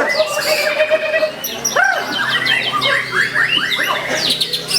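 White-rumped shama (murai batu) singing a continuous, varied song of quick whistled glides and chattering notes, with a low held whistle in the first second or so.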